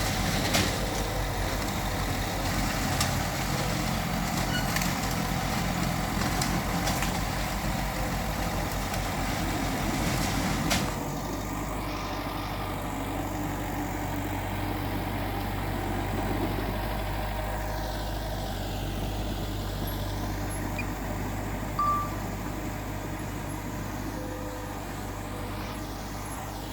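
Heavy diesel earthmoving machinery, a bulldozer working with dump trucks, running steadily. There are scattered clanks over the first ten seconds or so, then the sound turns abruptly to a steadier low engine drone about eleven seconds in.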